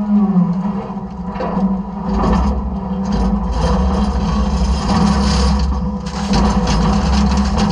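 Side-loader garbage truck's engine and hydraulics running with a steady low hum, while trash in the hopper crunches and scrapes in repeated stretches as it is handled and compacted.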